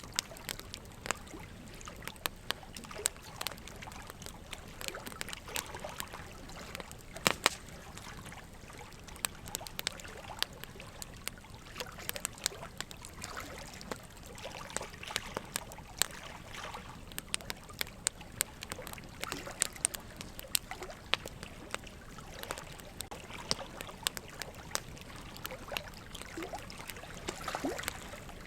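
Campfire crackling: a soft steady hiss with irregular sharp pops, the loudest a pair about seven seconds in.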